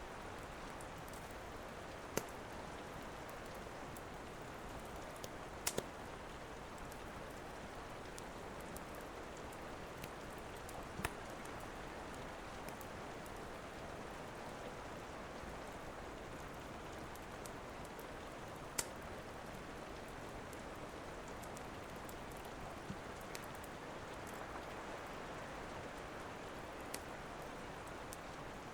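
Steady rain with a handful of sharp, widely spaced pops from a crackling wood fire.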